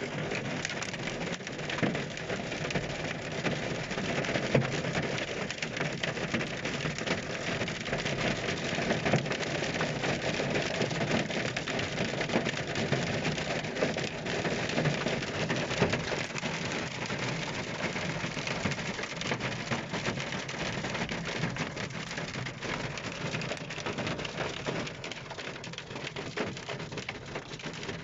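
Hailstorm: hail and rain pelting down steadily in a dense patter of many small hits.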